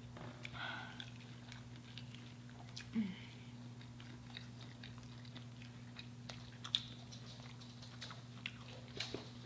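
Faint chewing and biting of fried chicken, with scattered small crunches and mouth clicks, over a steady low hum.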